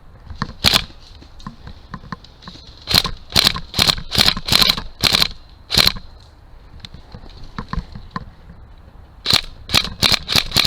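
Airsoft guns firing single shots. There is one shot about a second in, then a string of about seven shots spaced under half a second apart, then after a pause another quicker string near the end.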